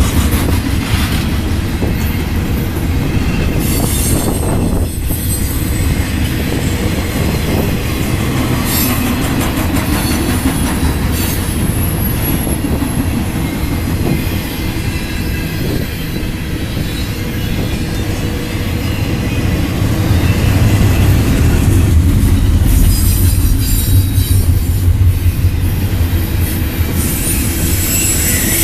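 Double-stack container train's well cars rolling past: a steady heavy rumble of steel wheels on rail, with thin high wheel squeals now and then and scattered clicks over the rail joints.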